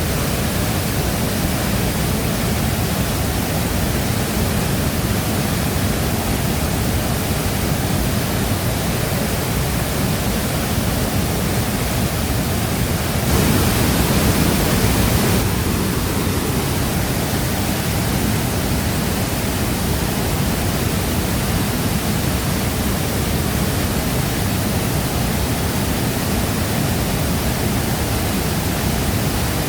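Shifen Waterfall's falling water, a steady, dense rushing that fills the low end and the highs alike. It swells slightly for a couple of seconds about halfway through.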